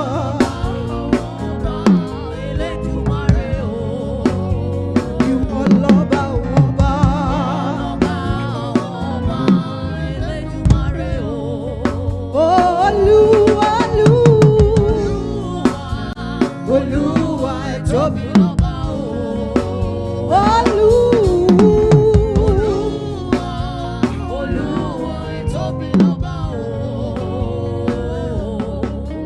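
Gospel praise-and-worship music: a band with drum kit playing steadily, with a singer holding long, wavering notes, strongest a little under halfway through and again about two-thirds in.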